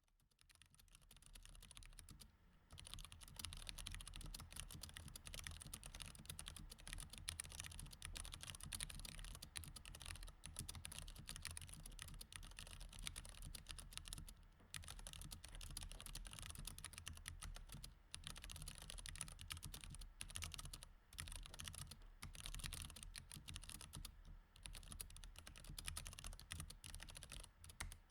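Steady, fast typing on a mechanical keyboard with Cherry MX Red switches, a dense stream of key clacks. It fades in over the first couple of seconds, with a few brief pauses.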